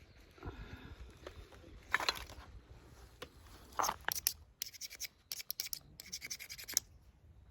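Scraping and rustling from gear being handled, with a quick run of rasping strokes in the second half.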